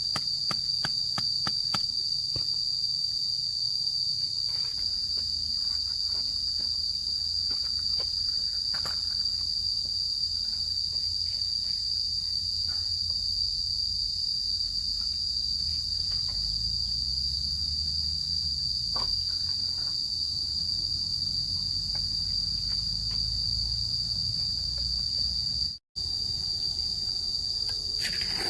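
Insects, crickets or cicadas, droning steadily in one continuous high-pitched tone, with scattered faint clicks and taps underneath. The sound cuts out for a moment near the end.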